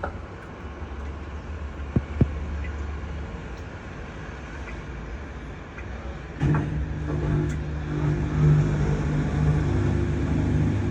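Whirlpool EEMC601 pulsator washing machine starting to drain on test after repair: two sharp clicks about two seconds in, then about six and a half seconds in a steady electric motor hum starts as the drain runs.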